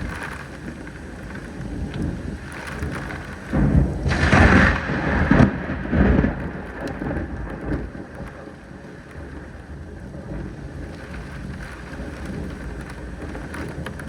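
Steady rain in a thunderstorm, with a roll of thunder that swells loudest from about three and a half to six seconds in, then fades back under the rain.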